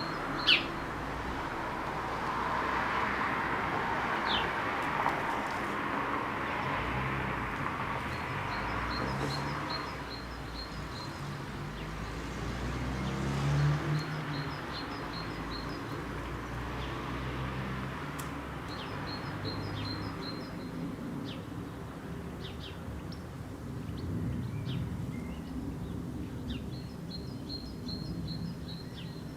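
Songbirds chirping in short repeated series of high notes, several times over, against a steady background rumble. A single sharp click just after the start.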